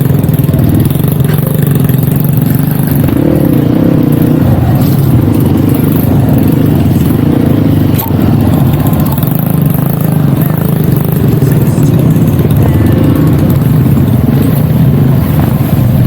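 Dirt bike engine running steadily under way, with small shifts in pitch as the throttle changes, and a single sharp knock about eight seconds in.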